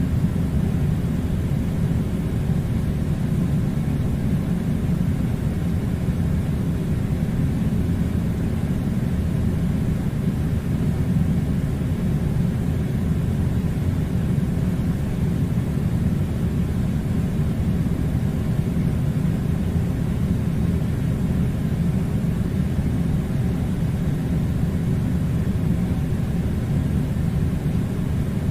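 Air conditioner running: a steady low rumble of rushing air that stays unchanged throughout.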